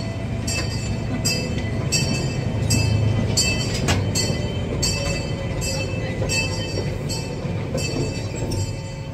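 Open-air miniature park train car rolling along its track with a steady low rumble. Over it, a regular high-pitched clicking repeats about every two-thirds of a second.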